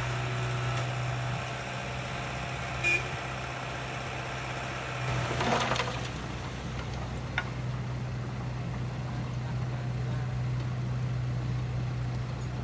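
Heavy construction-machine diesel engine running steadily at a low, even pitch, with a short click about three seconds in and a brief louder clank around five and a half seconds in.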